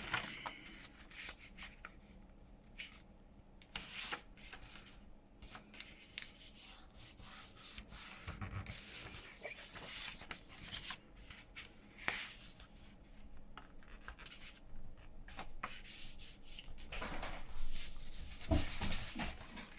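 Paper being handled: pages and card slid and rubbed against each other, with soft irregular rustles and light taps that grow busier near the end.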